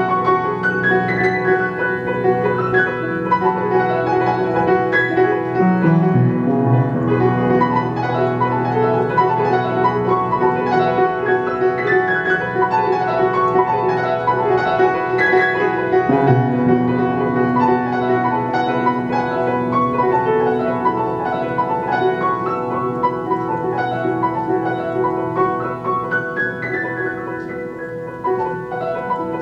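A simple self-composed tune played on a keyboard instrument: a melody of single notes over held bass notes. The bass shifts to new notes about six and sixteen seconds in.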